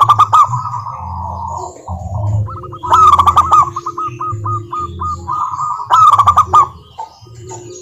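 Zebra doves (perkutut) calling: quick staccato cooing phrases of rapidly repeated notes, loudest in three bursts about three seconds apart, at the start, about three seconds in and about six seconds in.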